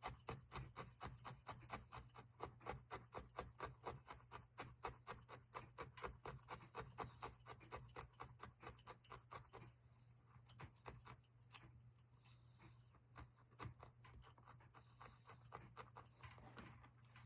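Felting needle stabbing wool roving against a foam block: a quick, even run of soft pokes, about five a second, that slows to scattered pokes about ten seconds in.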